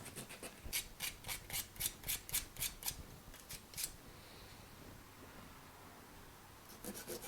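Short rubbing strokes of abrasive scrubbing at old glue on a scooter starter motor's magnets and housing, about four or five strokes a second for three or four seconds, then a pause, and a few more strokes near the end.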